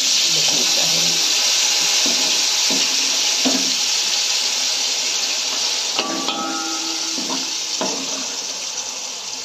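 Chicken pieces in hot oil sizzling in a large aluminium pot: a steady sizzle that starts at once and slowly dies down. In the second half a metal spoon clinks and scrapes against the pot a few times.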